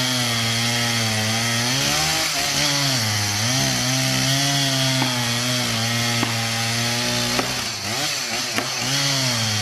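Chainsaw running at full throttle through a felling cut in a tree trunk, its pitch dipping several times as the chain bogs down under load, most deeply near the end.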